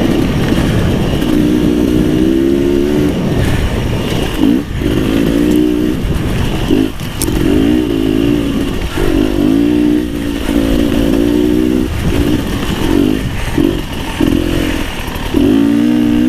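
Beta 300 RR two-stroke enduro motorcycle engine running under way, its revs climbing and dropping again and again as the throttle is opened and shut.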